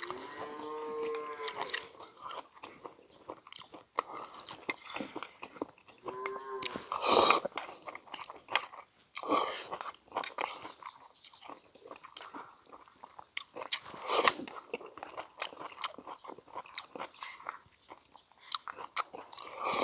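A person eating spicy mixed noodles, with wet chewing, smacking and slurping, including a louder slurp about seven seconds in. Drawn-out calls are heard in the background near the start and again about six seconds in.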